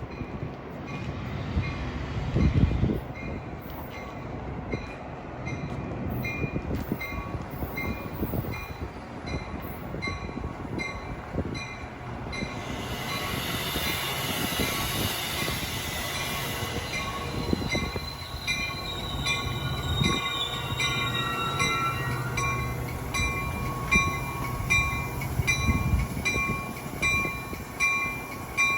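Metra commuter train moving through the station, its wheels squealing on the rails partway through, over a low hum and occasional thumps. A bell rings steadily, about twice a second.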